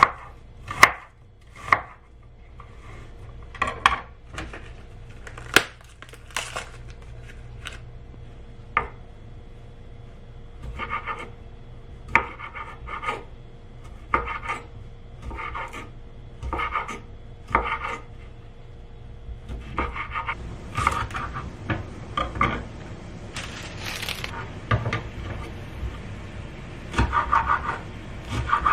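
Knife cutting food on a cutting board: a few sharp knocks at first, then a run of evenly spaced cutting strokes about one a second, and quicker clusters of strokes near the end.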